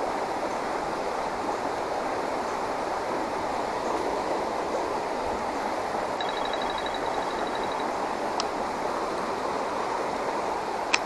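Steady rush of flowing creek water. A short, high, rapid trill comes about six seconds in, and two sharp clicks come near the end.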